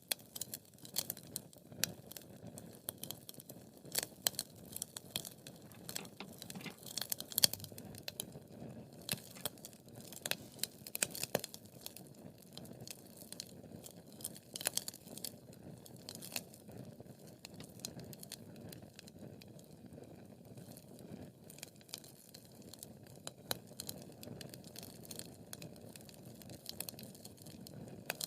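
Wood fire crackling in a fireplace: irregular sharp pops and snaps over a steady low hiss of the flames, busier in the first half.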